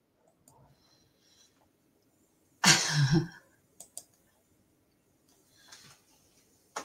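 A few sharp computer mouse clicks. The loudest thing is one breathy, sigh-like vocal sound a little under three seconds in, and two clicks follow close together about a second later.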